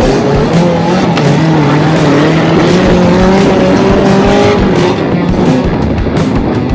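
Off-road vehicle engine revving hard under load, its pitch climbing slowly and holding high for several seconds before easing near the end.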